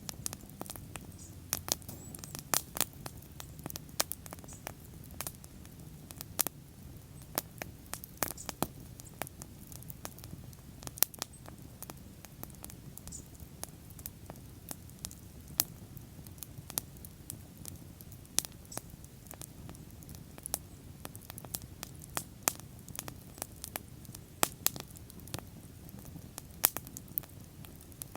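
Wood bonfire burning, with frequent irregular sharp crackles and pops over a low, steady rush.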